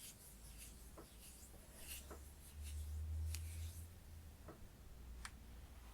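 Close-miked handling of a moisturiser container while dispensing the cream: scattered light clicks and soft crisp rustling scratches, with a low rumble swelling in the middle.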